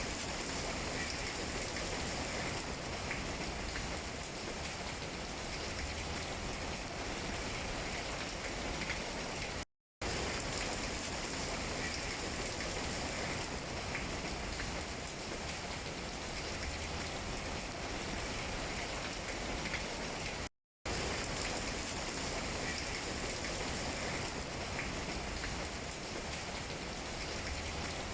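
Steady rain falling on tree leaves, an even hiss with scattered drop taps. It cuts out completely twice for a fraction of a second, about ten and twenty seconds in.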